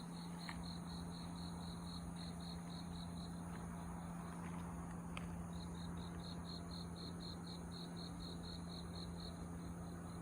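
An insect, likely a cricket, chirping in a faint, evenly spaced series of short high notes, about five a second, stopping for about two seconds near the middle before starting again. A steady low hum runs underneath.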